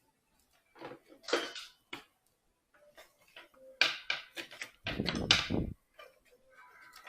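Clicks, knocks and scrapes of wooden model-boat kit parts being handled and fitted together, with a louder, longer rubbing bump about five seconds in.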